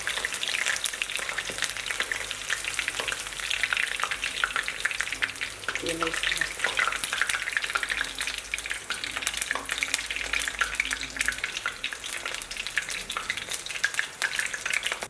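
Quail pieces frying in hot oil: a steady, dense crackling sizzle that cuts off suddenly at the end.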